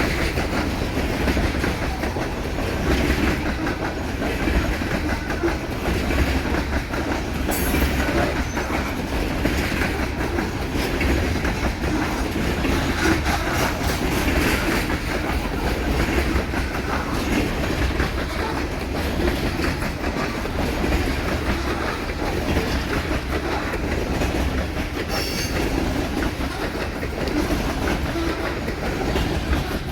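Freight cars of a coal train rolling steadily past, wheels clicking rapidly over the rail joints above a continuous rumble. Brief high-pitched wheel squeaks cut in twice, once near the start and once near the end.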